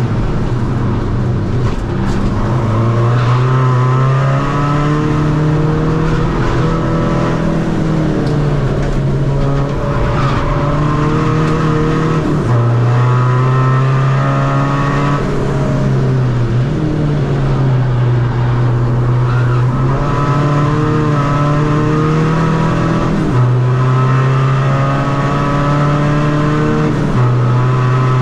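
Tuned 2.0 common-rail diesel engine of a 2011 Seat Ibiza FR, with race camshafts, pulling hard on track. Its note climbs through the revs and drops sharply at each quick gear change, about six times.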